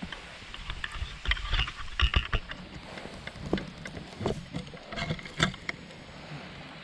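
A run of sharp cracks and a few dull thumps from burning firewood, over the steady murmur of a stream.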